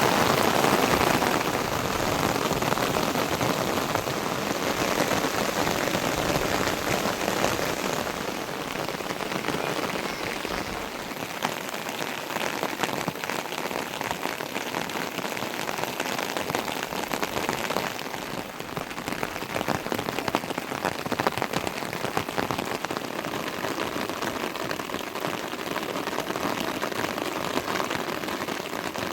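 Steady heavy rain falling, a dense hiss of countless fine drop impacts, a little louder in the first second or two.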